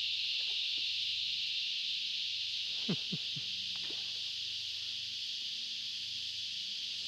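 Steady, loud drone of a cicada chorus. About three seconds in come a few short sounds that fall steeply in pitch.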